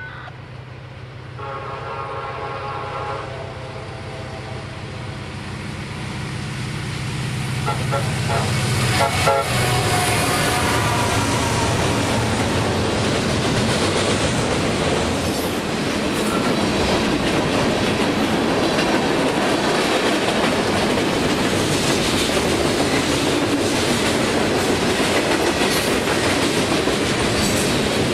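Diesel-hauled freight train passing close by. The locomotive sounds its horn in a short chord about two seconds in and again as it approaches. The engine's drone swells to its loudest as the locomotive goes by, about nine seconds in. Then the long string of freight cars rolls past with a steady clattering of wheels over the rails.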